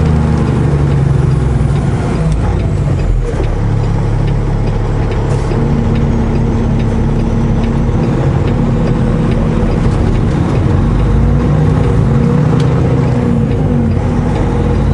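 Semi truck's diesel engine running steadily, heard from inside the cab while driving. Its note rises and falls a few times near the end.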